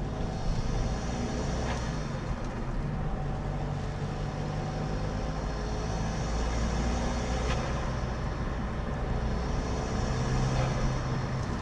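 Opel Astra G 2.2 DTI four-cylinder turbodiesel revved three times. The turbo whistle rises and falls with each rev, and each time a short sharp rush of turbo flutter is heard as the throttle closes.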